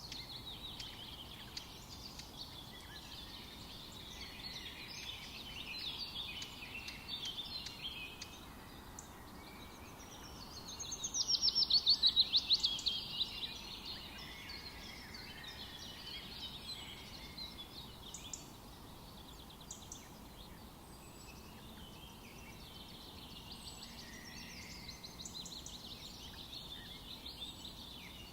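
Forest birds singing and chirping over a steady background hiss. About eleven seconds in, one bird gives a louder trill of fast repeated notes lasting two to three seconds.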